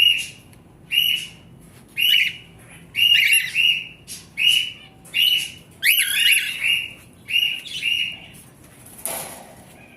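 Cockatiels calling: short, shrill chirps repeated about once a second, some sweeping quickly upward, with a brief rustling noise about nine seconds in.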